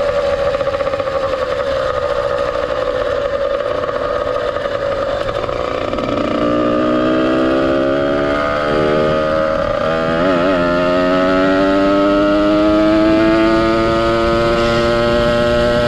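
Ported 100cc two-stroke engine of a motorized bicycle, breathing through a reed valve and a YZ85 expansion pipe, running at a steady speed. About six seconds in the note drops and then climbs steadily as the bike accelerates.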